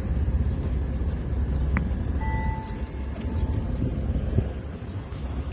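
Steady low rumble of engine noise around the waterfront. About two seconds in, a click, then a steady beep-like tone held for just over a second.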